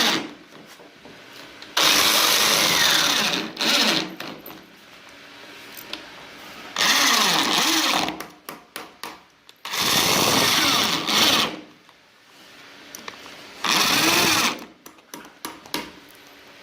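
A handheld electric woodworking power tool run in about five bursts of one to two seconds each, its motor pitch wavering as it cuts the wood. In the gaps between bursts come runs of sharp taps and clicks.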